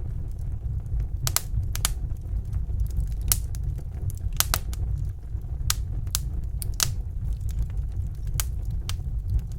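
Wood fire in a fireplace crackling, with irregular sharp pops and snaps a second or so apart over a steady low rumble.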